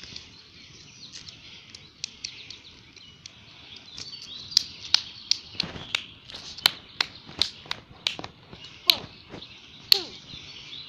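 Birds chirping in short, sharp calls, several a second from about four seconds in, over a steady high-pitched background hiss.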